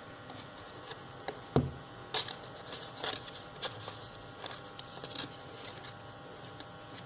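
Paper and thin cardboard being handled and pressed on a table: scattered light rustles and taps, with one louder knock about a second and a half in.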